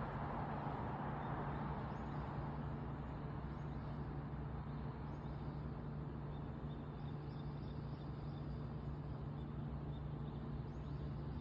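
Outdoor city ambience: steady traffic noise with a low hum, louder in the first couple of seconds and then easing, and faint quick high bird chirps in the middle.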